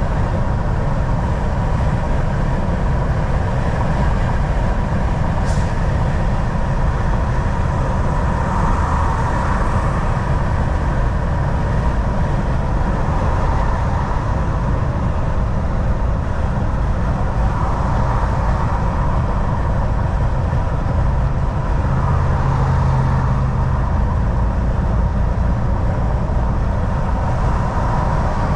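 Volvo VNL 760 semi truck cruising on the highway, heard from inside the cab: a steady low diesel engine rumble with tyre and road noise. A single sharp click sounds about five seconds in.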